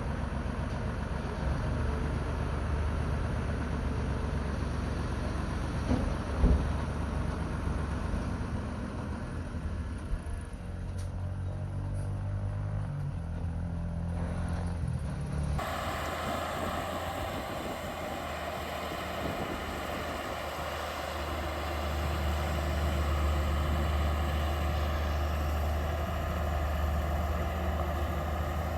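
Heavy diesel engines of earthmoving machinery running steadily, with a single sharp knock about six seconds in. Halfway through, the sound changes suddenly to a different engine drone.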